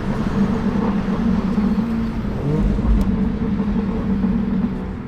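Car driving along a road: a steady engine hum under a continuous rush of road and wind noise, with a brief low thump about three seconds in.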